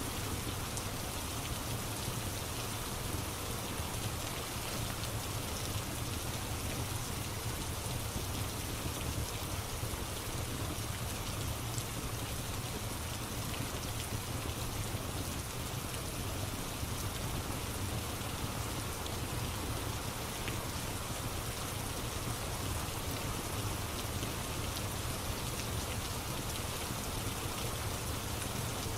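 Steady rain falling on a surface, an even continuous hiss, with a few faint crackles.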